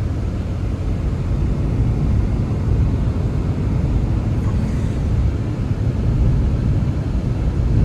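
Blizzard wind blowing, a steady low rumble without a break.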